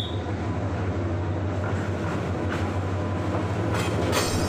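Diesel locomotive of a passenger train pulling into the station alongside the platform: a steady low engine drone over wheel and rail noise, with a few brief sharp high sounds near the end.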